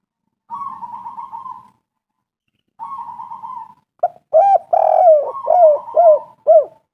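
Spotted dove (tekukur) cooing: two soft, burry phrases, then a louder run of short coos about four seconds in, each note falling in pitch.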